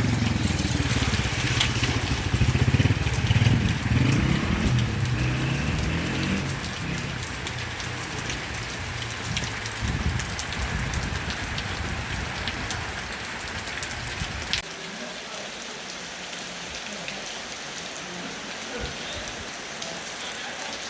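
Heavy rain falling and pattering on a surface, with sharp drop ticks through a steady hiss. A low rumble runs underneath for the first two-thirds and stops suddenly, leaving only the rain.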